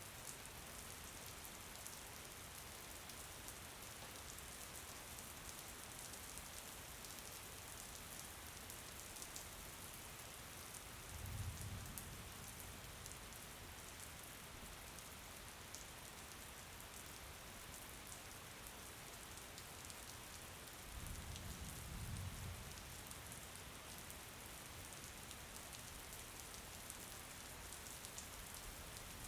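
Steady rain falling, an even hiss of drops. Twice a low rumble swells for a couple of seconds, about a third of the way in and again later.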